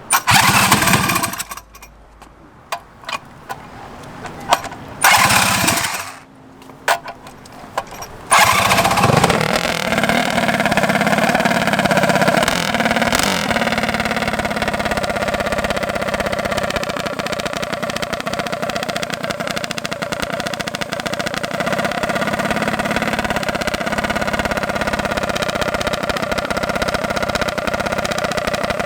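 Mini bike's small single-cylinder engine firing in three short bursts over the first eight seconds. About eight seconds in it catches and runs steadily, with only slight rises and falls in pitch.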